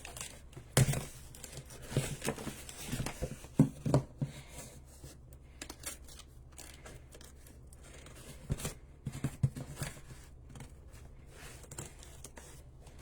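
A cardboard shipping box being opened by hand: tape and cardboard tearing, snipping and packing material crinkling in irregular rustles and clicks. The handling is busiest in the first four seconds and picks up again about nine seconds in.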